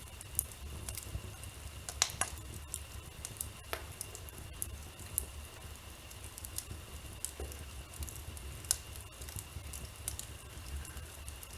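Wood fire in a fireplace crackling, with irregular sharp pops and ticks, a few stronger ones about two and nine seconds in, over a low steady rumble.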